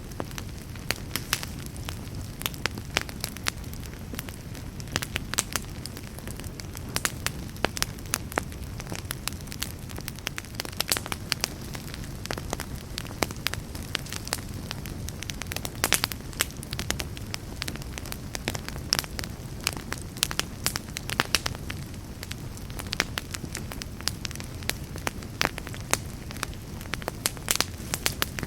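Wood fire crackling in a fireplace: frequent irregular sharp crackles and pops over a low steady rumble of the flames.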